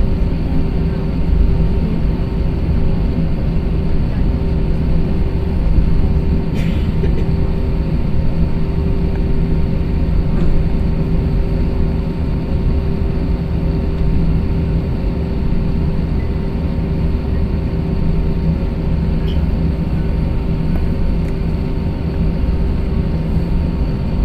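Steady cabin noise inside an Airbus A321-200: the jet engines and cabin systems running at an even level, with a constant low hum. A brief click about six and a half seconds in.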